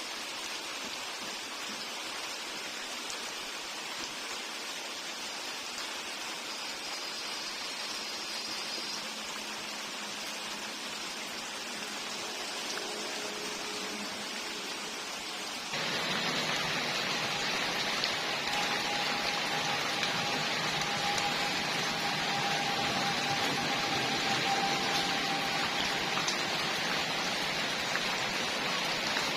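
Steady hiss of rain that steps abruptly louder about sixteen seconds in.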